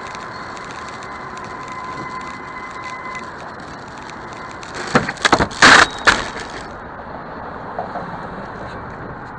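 Vehicle collision on a dashcam: over steady road noise and a thin steady tone in the first few seconds, a burst of loud bangs and crunching comes about five seconds in and lasts about a second, with rattling debris after it.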